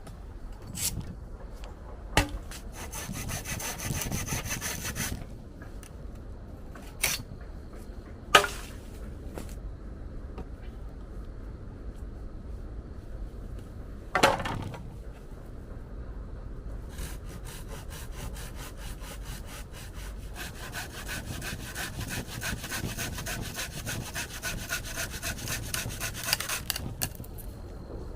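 Hand saw cutting wood in quick, even strokes: a short spell early and a longer one in the second half, with several single sharp knocks in between.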